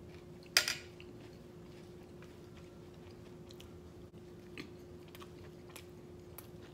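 Close-up eating: one sharp, crunchy bite about half a second in, then quieter chewing with small crunches and mouth clicks. A faint steady hum runs underneath.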